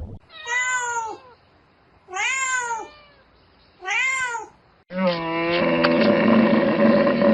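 A domestic cat meowing three times, each call rising and falling in pitch. Just before the end a cow begins one long, steady moo.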